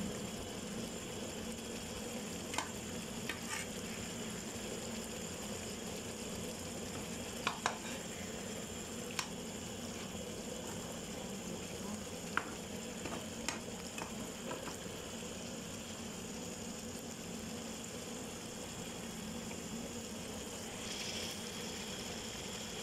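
Fish in a thick chili-tomato sambal sizzling and bubbling steadily in a frying pan, with a few scattered light clicks of a spatula against the pan in the first half.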